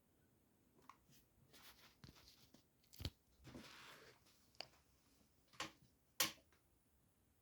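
A quiet room with a few scattered sharp clicks and knocks, the loudest near the end, and a brief rustle about halfway through.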